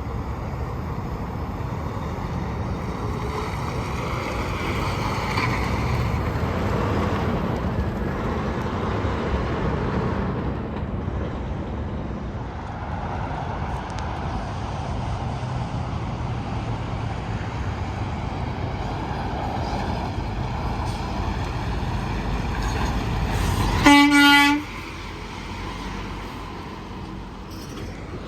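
Heavy trucks and traffic passing on the interstate: a steady rumble of engines and tyre noise that swells and fades. Near the end, one short horn blast, the loudest sound, after which the road noise drops off.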